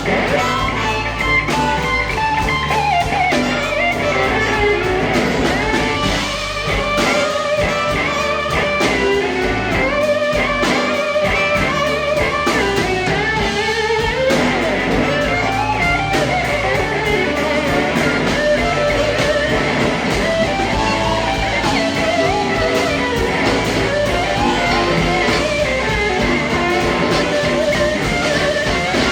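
Live blues band playing a slow blues: a lead electric guitar solo with bending, gliding notes over drum kit and bass, with no singing.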